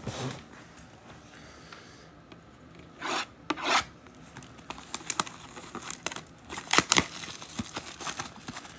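Trading-card packaging being torn open by hand, plastic wrap crinkling and rasping. Two short tearing rasps come about three seconds in, then a run of sharp crinkles.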